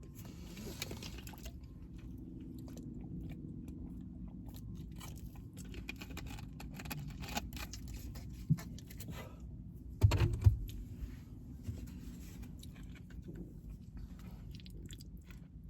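Close-miked chewing and wet mouth sounds of someone eating, with small clicks and crunches throughout. There is one louder bump about ten seconds in.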